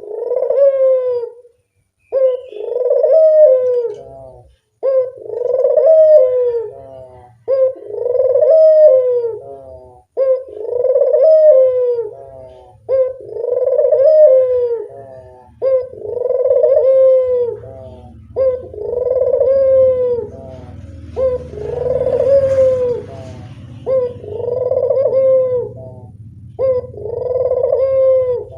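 Puter dove cooing over and over, about one call every two and a half seconds, each a short note followed by a longer rolling coo. A low hum comes in under the calls during the second half.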